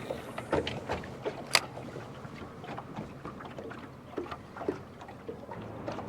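Water lapping against the hull of a small fishing boat, with scattered light taps and clicks and one sharper tap about a second and a half in.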